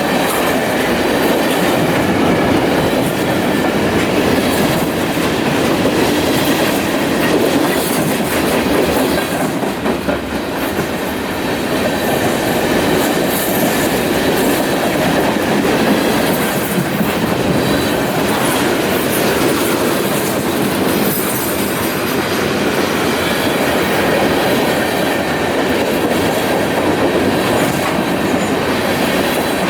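Freight train cars rolling steadily past: a continuous rumble of steel wheels on rail.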